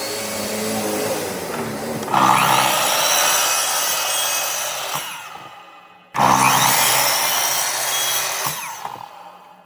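A woodworking power tool running and cutting into wood twice. Each pass starts suddenly and loud, then fades away as the tool winds down.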